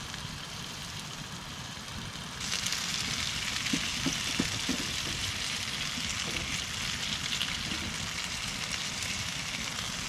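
Sausage and potatoes sizzling in a frying pan, the sizzle growing louder and brighter about two seconds in, with a few light knocks partway through.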